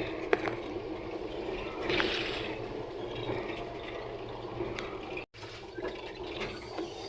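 Water running and trickling steadily, with a brief dropout about five seconds in.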